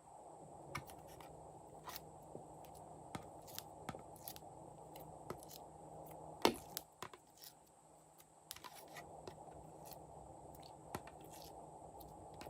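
Glossy slime being mixed and pressed by hand, giving irregular sticky clicks and pops, the loudest about six and a half seconds in.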